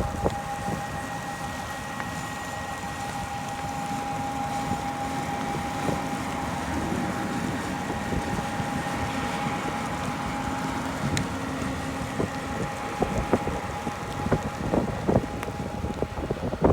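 John Deere S790 combine running with a steady high whine that stops about thirteen seconds in. Wind buffets the microphone throughout, with short knocks near the end.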